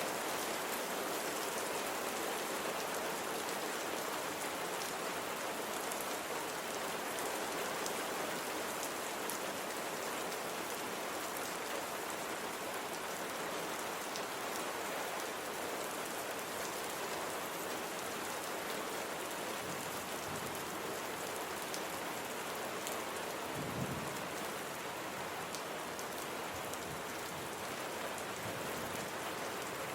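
Steady rain falling, an even hiss with scattered drop ticks, and a brief low thump about three-quarters of the way through.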